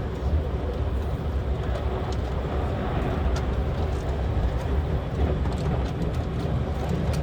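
Steady running noise of the Limited Express Shinano heard inside the passenger cabin: a continuous low rumble of wheels on rail, with a few faint ticks.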